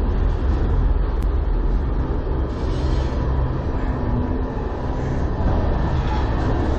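A long freight train rolling past slowly, with a steady low rumble and hum of the cars on the rails.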